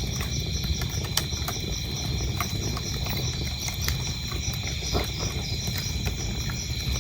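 Wood fire crackling, with frequent sharp pops over a low steady rumble, and crickets chirping in an even high pulse behind it.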